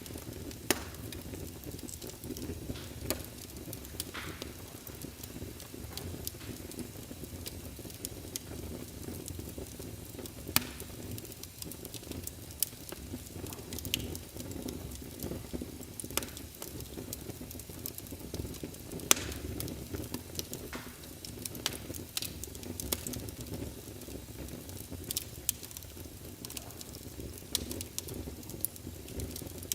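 Wood fire crackling in a fireplace: a steady low rumble of flames with irregular sharp pops scattered throughout, a few of them louder than the rest.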